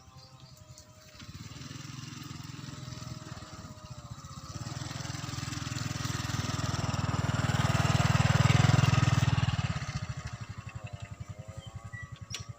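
A small engine passes by, growing louder to a peak about two-thirds of the way in, then fading.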